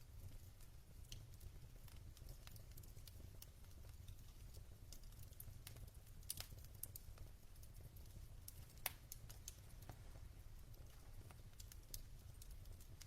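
Wood logs burning in a fireplace, crackling with scattered sharp pops at irregular intervals over a steady low rumble of the fire. The loudest pop comes about nine seconds in.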